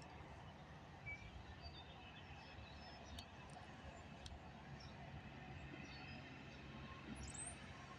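Near silence: a faint steady low hum with a few faint, brief bird chirps.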